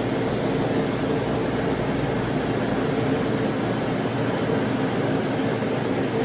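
A steady machine hum with two held tones over an even rushing noise, unchanging throughout.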